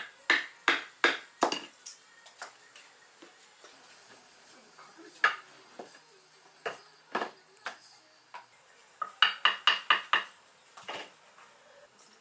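Mallet striking a pricking iron through leather to punch stitch holes, in sharp, separate blows: a quick run of about five, a few single blows, then a fast run of about six.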